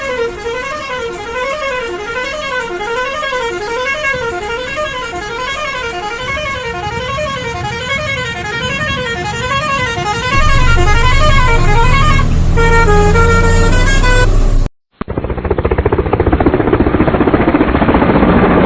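A truck's musical horn warbling, its pitch sliding up and down over and over, then stepping through a short tune, with a loud low hum joining about ten seconds in. After an abrupt cut near the end comes a loud, rough, dull noise.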